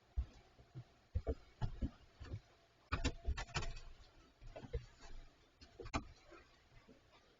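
Irregular thuds, knocks and scraping from bears handling a steel refrigerator, with a quick cluster of knocks about three seconds in.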